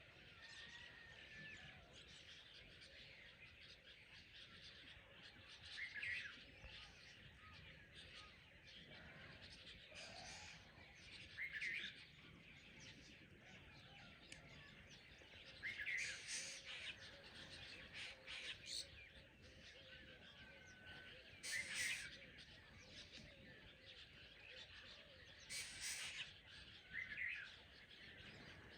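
Dawn chorus of birds: many birds chirping quietly throughout, with a louder short call standing out every four to five seconds.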